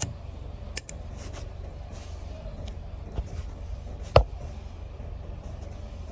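A few light clicks and one sharp knock with a short metallic ring about four seconds in, over a steady low rumble: tools and parts knocking together during work on an engine.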